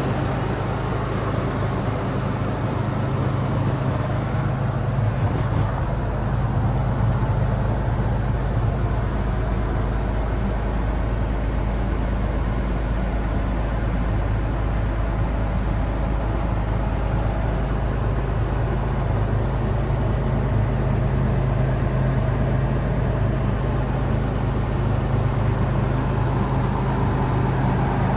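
2019 International MV607's 6.7L Cummins turbo diesel running at a steady idle, a constant low hum.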